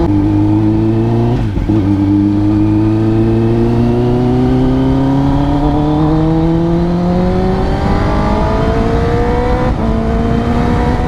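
2022 Kawasaki ZX-10R's inline-four engine through an Arrow Indy Race exhaust, pulling under acceleration with its pitch climbing slowly. It shifts gear about a second and a half in and again near the end, the pitch dropping and then rising again.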